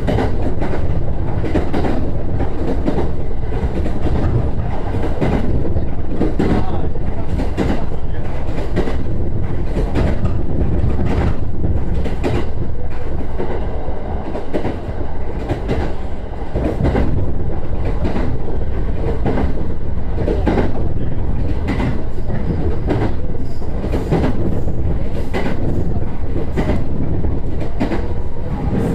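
JR East E129 series electric train running along the line, heard from inside the car: a steady low rumble with wheels clicking over rail joints.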